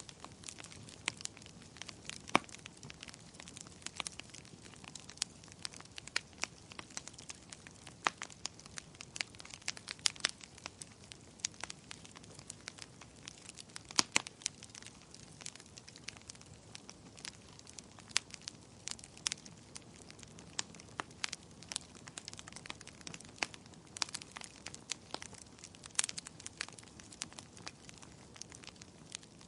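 Wood fire in a fireplace crackling: irregular sharp pops and snaps, several a second, over a faint steady hiss of the flames.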